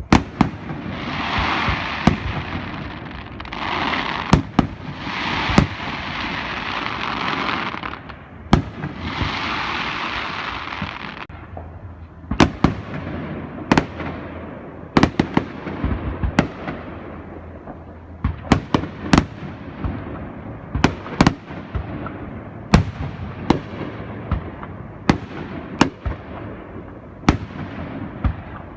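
Fireworks display: long stretches of hiss in the first ten seconds or so, with bangs among them, then a run of sharp bangs about one a second, each trailing off in echo.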